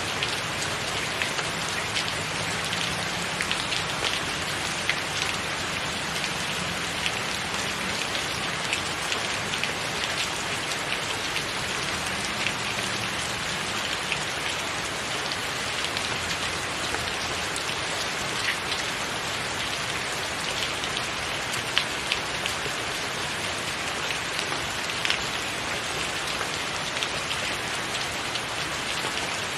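Steady rain falling on a tiled roof: an even hiss with many separate drops ticking through it.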